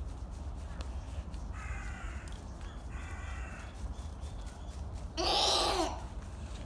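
Seabird calls: two short calls about two and three seconds in, then a louder, harsh call near the end.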